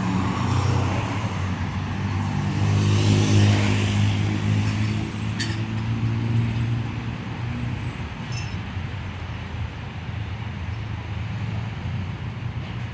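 Rush-hour street traffic with a motor vehicle's engine running close by: a steady low hum that swells about three to four seconds in as traffic passes, with a couple of brief clicks.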